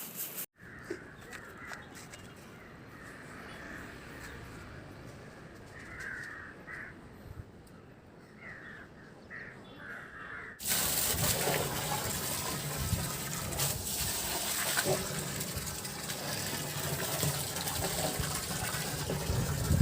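Crows cawing now and then over a quiet background, several short calls. About halfway through it cuts to a louder, steady rushing noise.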